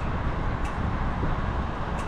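Steady low rumble of wind and road noise picked up on a mountain bike ride beside traffic, with a faint click a little over half a second in.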